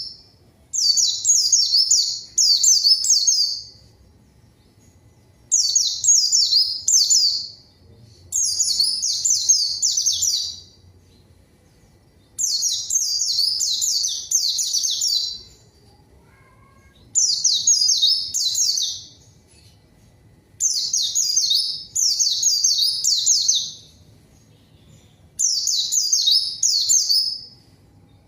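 A white-eye (pleci) singing: rapid, high twittering song phrases, about seven bursts of one to three seconds each with short pauses between them.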